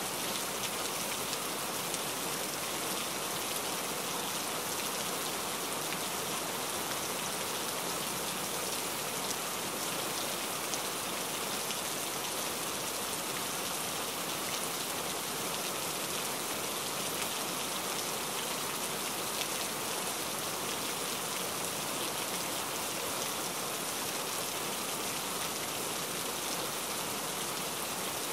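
Steady rain falling: an even, unbroken hiss of many drops, bright rather than deep.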